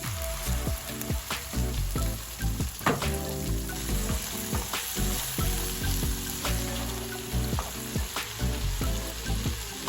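Food sizzling as it fries in a pan, with repeated sharp clicks and taps of a utensil stirring against the pan.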